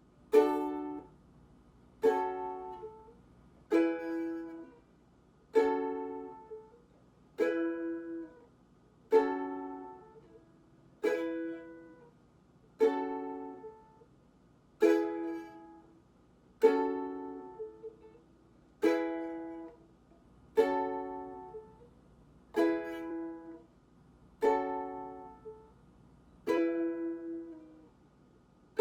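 Ukulele strummed one chord at a time, slowly and evenly, about one strum every two seconds, each chord left to ring and fade. The chords go back and forth, a practice of the change between G♭m and E.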